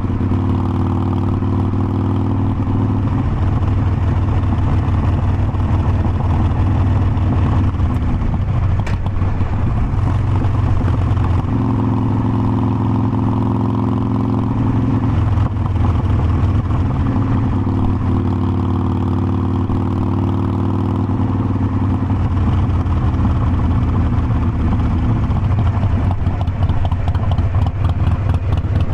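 Harley-Davidson Forty-Eight Sportster's air-cooled V-twin running under way on a ride. The engine note shifts up and down in pitch several times as the throttle and speed change.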